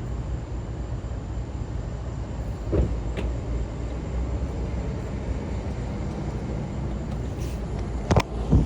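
2017 Camaro SS's straight-piped 6.2-litre V8 cruising, a steady low exhaust rumble heard from inside the cabin. Two sharp knocks come near the end.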